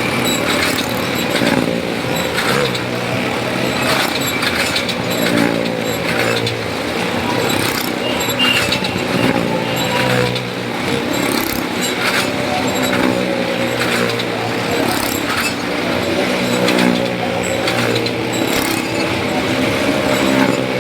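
Motorcycle engines running hard as the riders circle the well-of-death wall, the pitch rising and falling over and over.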